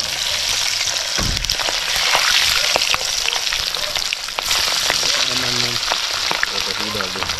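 Food deep-frying in a pot of hot oil: a steady loud sizzle with frequent crackling pops, and a low thump about a second in.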